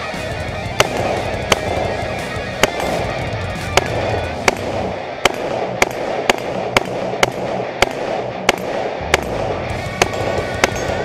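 Semi-automatic AR-style rifle fired in a string of about fifteen sharp shots, slow at first and then about two a second in the middle, over background music.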